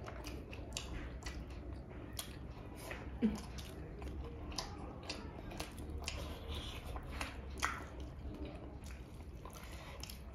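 Close-up eating sounds of a Manipuri chakluk meal: wet chewing and lip smacks, heard as a scatter of small irregular clicks.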